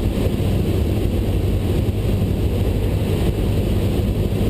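Cessna 172 Skyhawk's four-cylinder piston engine and propeller running steadily as heard inside the cockpit, a loud constant drone on final approach.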